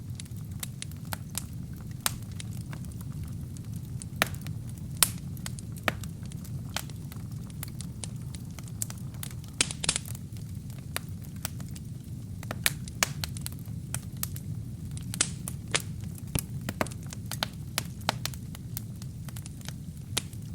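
Wood and kindling burning in a fireplace: a steady low rumble of flame with frequent sharp, irregular crackles and pops, a brief cluster of louder pops about halfway through.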